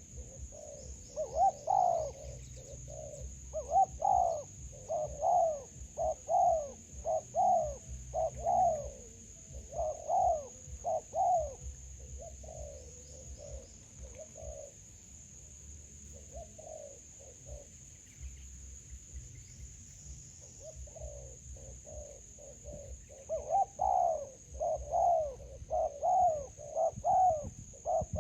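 Spotted doves cooing in repeated phrases of low, rounded notes, the calls a trapper's decoy uses to draw in wild doves. The cooing thins out for several seconds in the middle, then comes thick again near the end.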